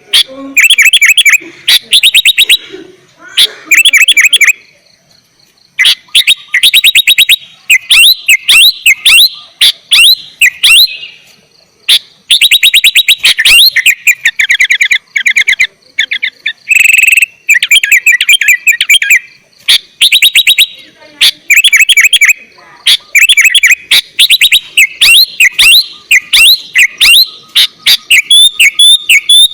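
Sooty-headed bulbul (kutilang) singing vigorously in rapid bursts of quick, chattering phrases, with short pauses between bursts.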